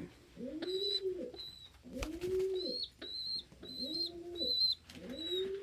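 Domestic pigeons cooing: a run of low, arching coos at about one a second, with a thin, high peeping over them.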